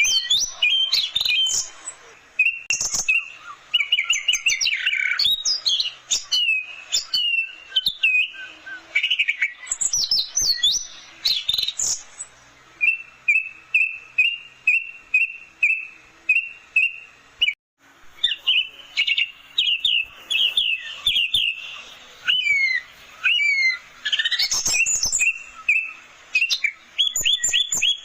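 Orange-headed thrush singing a loud, varied song of quick whistled phrases and rapid slurred notes. In the middle it gives a run of short, evenly repeated notes, then breaks off briefly before resuming its varied phrases.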